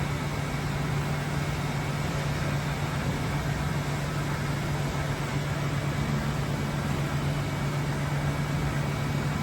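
Fehlmann 82 CNC milling machine running with a steady, unchanging hum: a low drone over an even hiss.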